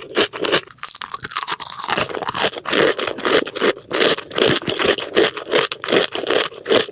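Close-miked ASMR mouth chewing and crunching of food: crackly crunches over a steady chewing rhythm of a few chews a second.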